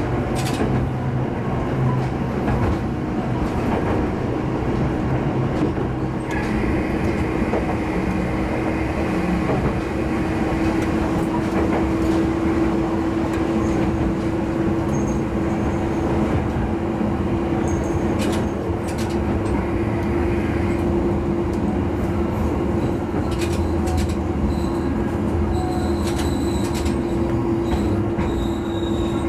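Diesel railcar of the Hitachinaka Seaside Railway running along the line, heard from on board: a steady engine drone over wheel and rail noise, with occasional clicks. A high wheel squeal comes in about six seconds in, lasts a few seconds, and is heard again briefly near twenty seconds.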